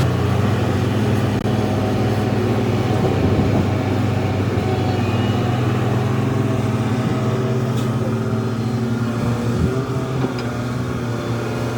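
Heavy diesel engine of earthmoving machinery running steadily at an even pitch.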